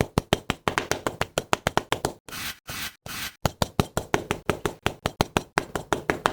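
A rapid series of light knocks or taps, about four to five a second, broken about two and three seconds in by two brief scraping noises.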